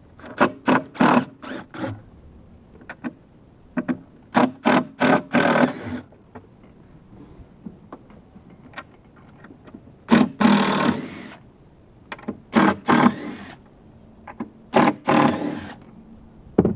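Parts of a car audio install being knocked loose by hand. The sound comes in five bursts of sharp knocks and clatter, with quiet gaps between them.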